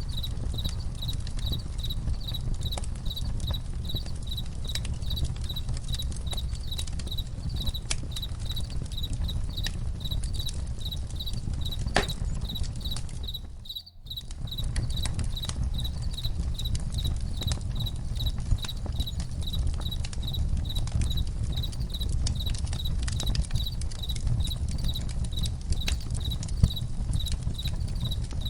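Campfire crackling with scattered sharp pops over a low steady rumble, while crickets chirp in a high, even, pulsing rhythm. The whole sound briefly drops away about halfway through, then resumes.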